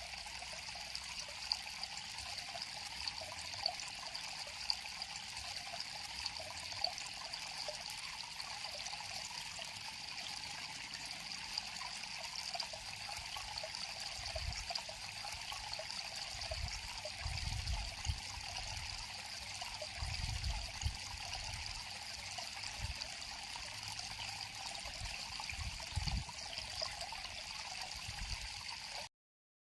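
River water flowing and trickling steadily. A few low bumps come in the second half, and the sound cuts off abruptly near the end.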